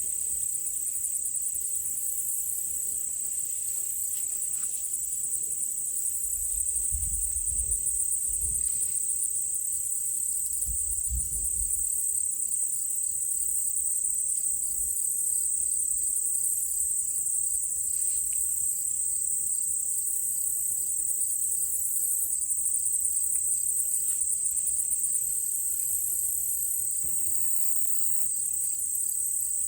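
Chorus of insects trilling steadily, a high, finely pulsing buzz, with two faint low rumbles near the middle.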